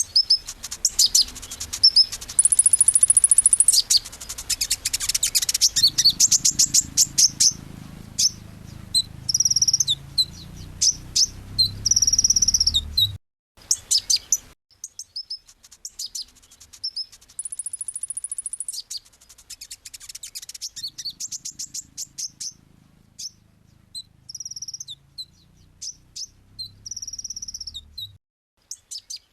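Kolibri ninja (Van Hasselt's sunbird) singing a fast, high twittering song of sharp chirps, rapid trills and long buzzy high notes. The song breaks off briefly about halfway and the same run of phrases starts again. A faint low hum sits under much of it.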